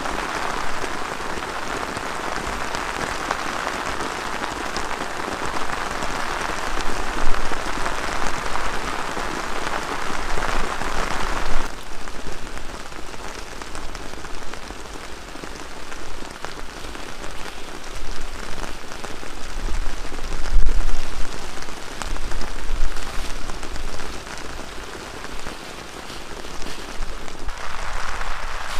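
Heavy rain falling steadily, with scattered sharper drops and gusts of wind rumbling on the microphone. About twelve seconds in the sound changes abruptly to a thinner, more spread patter, and the fuller rain hiss returns near the end.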